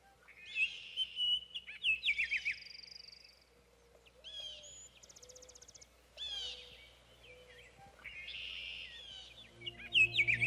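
Birdsong: several birds chirping in short bursts of quick falling notes, with a fast trill between them. Near the end, ambient music with held tones comes in.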